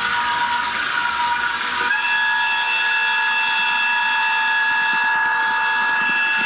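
Sound decoder in an HO-scale EF210 electric locomotive model, playing the locomotive's horn through the model's small speaker as one long, steady multi-tone blast of about four and a half seconds, starting about two seconds in. A steady electronic whine from the decoder's running sound plays underneath.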